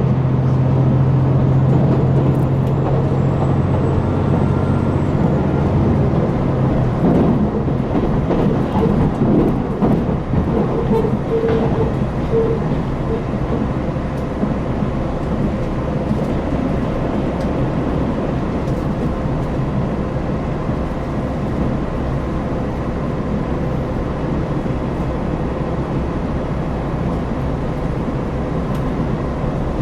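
Diesel engines of a KiHa 261 series express railcar heard from inside the car while the train runs under power, with the rumble of wheels on rails. A steady low engine hum drops away about six seconds in, leaving mostly running noise.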